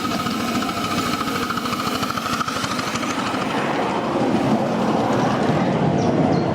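Miniature railway locomotive and train running on the track, a busy, rapidly pulsing mechanical noise, with a steady high tone over the first three seconds or so that then fades.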